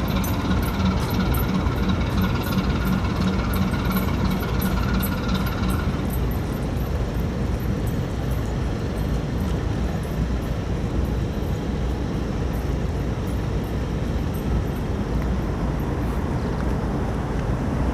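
Steady mechanical running noise with a fast, even ticking over it for about the first six seconds; after that the ticking stops and only a smoother steady noise remains.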